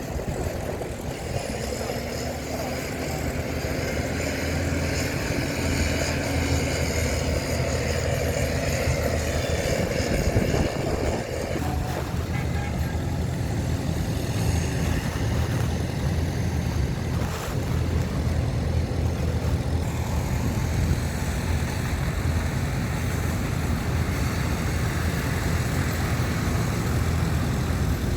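Heavy earthmoving machinery, bulldozer and dump truck diesel engines, running steadily under load, with a tone that rises and falls in pitch during the first ten seconds or so.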